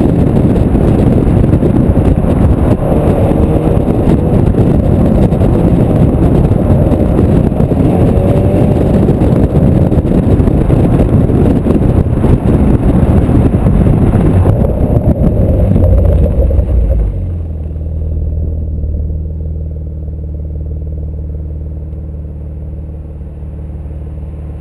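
Porsche Macan Turbo's twin-turbo V6 through its sport exhaust, running loud and hard for about seventeen seconds. It then drops suddenly to a steady, lower engine note that slowly fades.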